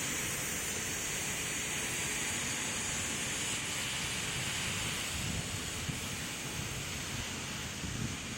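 Steady hiss of background noise, with wind gusting on the microphone from about five seconds in.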